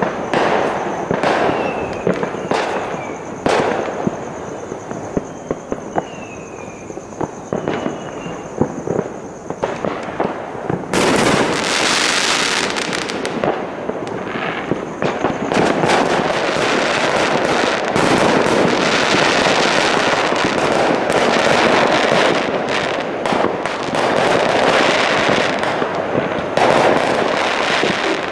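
Distant fireworks and firecrackers: scattered sharp bangs and pops at first, then from about eleven seconds in a dense, continuous crackle of rapid-fire firecrackers that keeps going.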